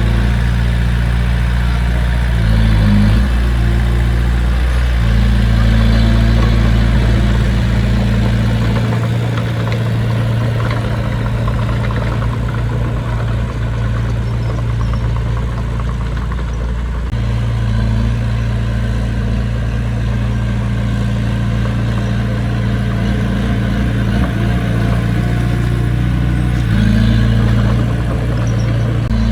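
Diesel engine of heavy earthmoving equipment running continuously as a low drone, its note shifting every few seconds.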